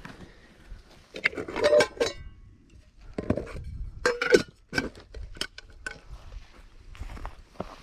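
Metal cookware and utensils clinking and clattering as they are handled. It comes as a series of separate knocks, some ringing briefly, bunched around two seconds in and again from about three to six seconds in.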